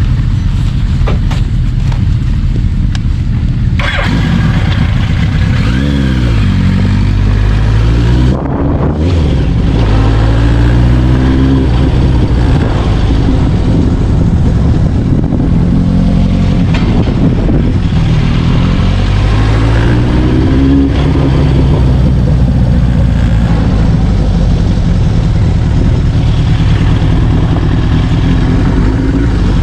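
Several motorcycle engines running together, loud and steady, with engine pitch rising and falling repeatedly as bikes rev or ride past.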